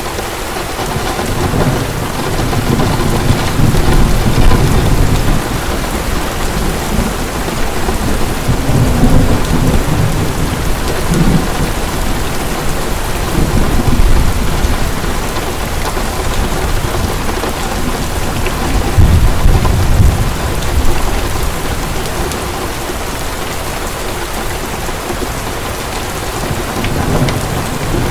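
Heavy rain falling steadily, with low rolls of thunder swelling and fading several times, the strongest a few seconds in, around the middle and about two-thirds of the way through.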